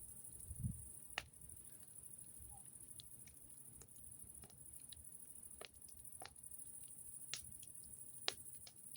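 Campfire crackling: irregular sharp pops and snaps, a few of them louder, over a steady faint high hiss, with a low thump a little under a second in.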